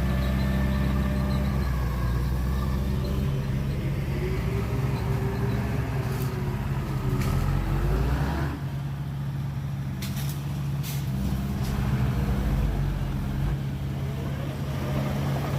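Heavy diesel engine of earthmoving machinery running under load. Its note wavers up and down in the middle, then it settles lower after about eight seconds. A few short sharp knocks sound over it.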